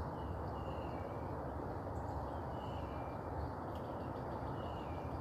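A bird calling three times, about two seconds apart, each call a short high whistle that steps down in pitch, over a steady low background rumble.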